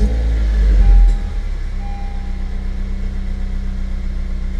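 Honda Civic Si engine through an Invidia Q300 aftermarket exhaust, just started: the start-up flare holds loud for about a second, then drops and settles into a steady idle.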